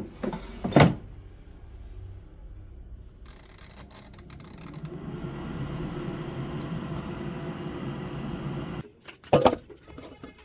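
Kitchen clatter: two sharp knocks, then a steady machine hum for about four seconds that cuts off suddenly, followed by another pair of knocks.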